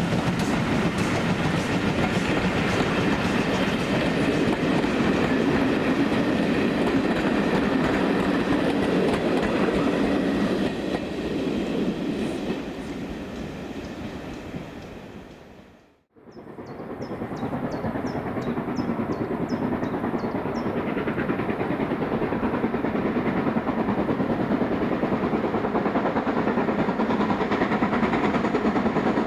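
Steam-hauled train running past with wheels clattering over the rail joints, dying away and fading out about halfway through. After a cut, a second steam train fades in and runs on steadily at the same loudness.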